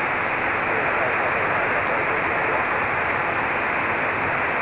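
Steady hiss of static on the aircraft's VHF radio, heard through the cockpit audio feed during a pause in the ATIS broadcast. The hiss is narrow-band like radio audio, loud, and even, with no voice in it.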